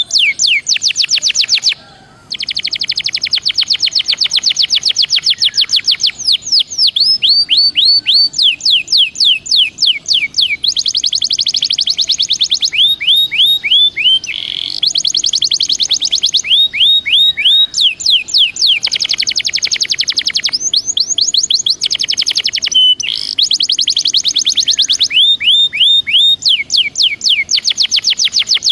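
Belgian canary singing in long tours of rapid repeated high notes and trills, many of them falling in pitch, with only brief pauses between phrases.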